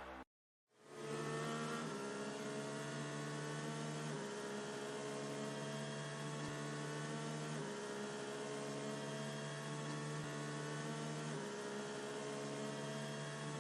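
Background music for the quiz's thinking time: a steady synthesizer drone of held chords that change about every three and a half seconds, starting just after a brief gap of silence.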